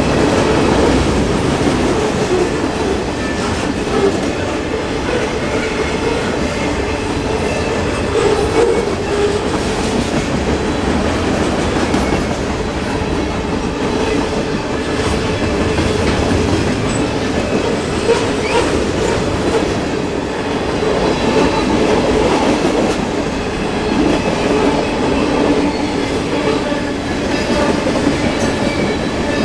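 Two freight trains' cars rolling past each other on adjacent tracks: a steady rumble of steel wheels on rail with occasional knocks.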